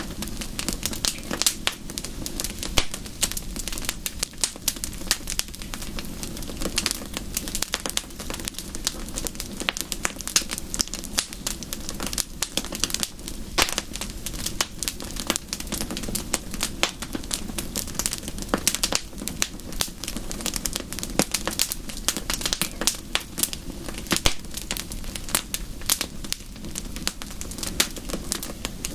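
Wood fire crackling in a fireplace: a dense, irregular run of sharp pops and snaps over a steady low rumble of the flames.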